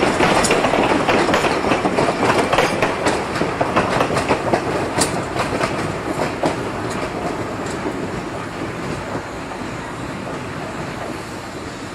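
Narrow-gauge train rolling along the track, its wheels clacking over the rail joints, growing gradually fainter.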